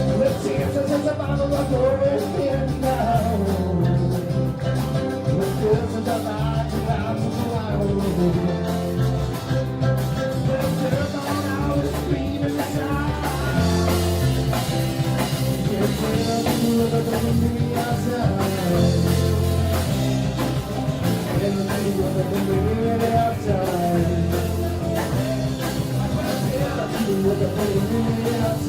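Live rock band playing a song with a singer, electric guitar, bass and drums.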